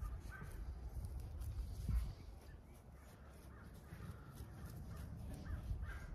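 A bird cawing a few times in the background over a low, steady rumble, with a dull thump about two seconds in.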